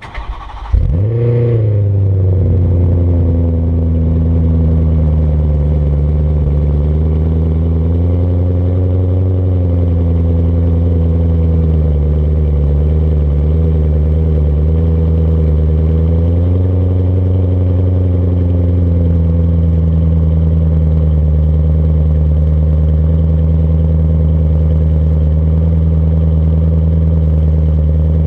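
BMW E92 M3's 4.0 V8 cold-started through an Eisenmann Race exhaust. It cranks briefly and catches loudly about a second in. It then runs at a wavering high cold idle, and its pitch settles into a steady idle about two-thirds of the way through.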